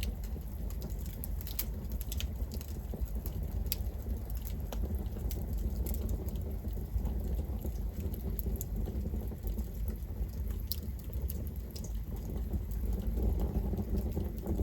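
Campfire burning with a steady low rumble and scattered sharp crackles and pops of burning wood.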